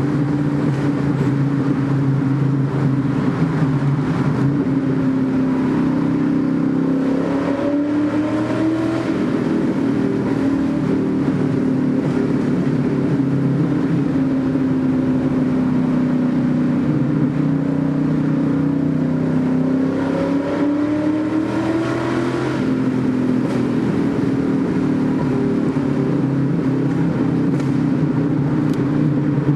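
TVR Chimaera's Rover V8 running through a decatted, sleeved exhaust while the car drives, the engine note mostly steady and rising twice under acceleration, about a quarter of the way in and again about two-thirds through, each time dropping back. The exhaust is reverberating in a tunnel.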